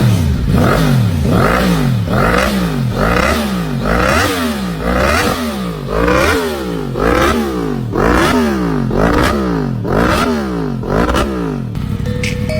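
Motorcycle engine breathing through a Proformance aftermarket exhaust, revved in quick repeated blips, a little under one a second, each rising and falling back. The revving stops just before the end.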